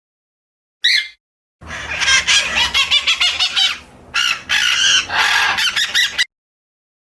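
Birds calling: a single short chirp about a second in, then several seconds of rapid, busy chattering and clucking calls that cut off abruptly near the end.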